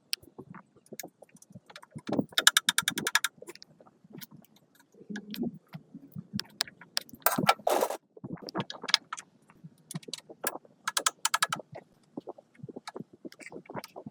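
Hand work on metal parts: irregular clinks, knocks and scrapes, with two short bursts of rapid clicking.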